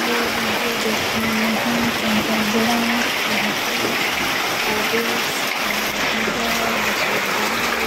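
Heavy rain pouring and rainwater running across the street, a steady hiss. A faint tune of short held notes plays underneath.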